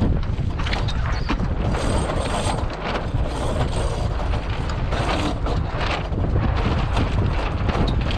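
Strong gusty wind buffeting the microphone, with irregular rattling and clicking throughout.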